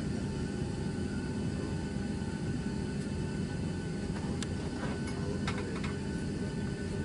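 Steady cabin hum inside a Boeing 737-700 before departure: an even low rush of air with a few steady whining tones over it. There are a few light clicks between about four and six seconds in.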